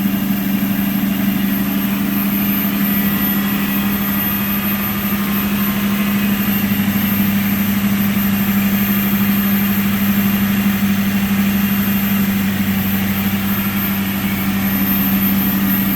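Lexus LX470's 4.7-litre V8 idling on a cold start, with the secondary air injection pump running as a steady hum over it.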